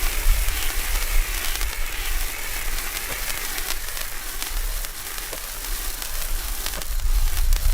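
Firework fountain spraying: a steady, wavering hiss with a few sharp crackles, over a low rumble.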